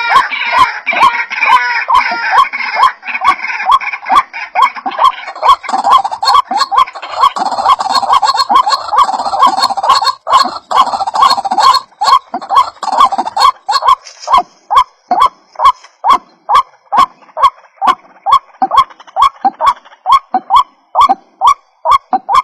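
White-breasted waterhen calls, a fast run of repeated croaking notes about two a second. The calls overlap densely in the first half and thin to one steady repeated note later, with sharp clicks at even spacing throughout.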